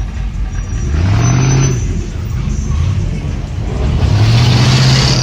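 A car engine revving twice at a car meet, the pitch climbing and holding briefly each time, over the general noise of running cars.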